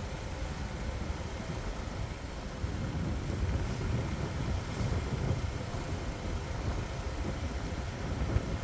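A vehicle driving at low speed: steady engine and road rumble.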